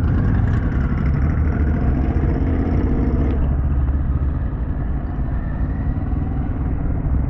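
Harley-Davidson Pan America's liquid-cooled V-twin engine running at low speed, a steady low engine note that drops a little about halfway through.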